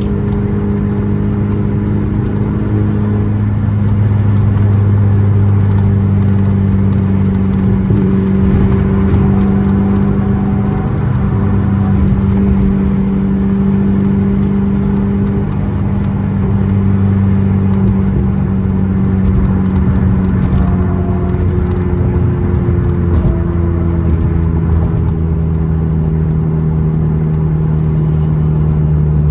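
Car engine running at a steady speed with a constant low drone; the pitch drops right at the end as the engine slows.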